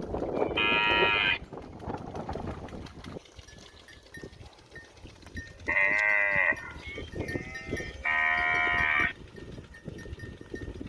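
Cow mooing three times, each call about a second long: one near the start and two more in the second half.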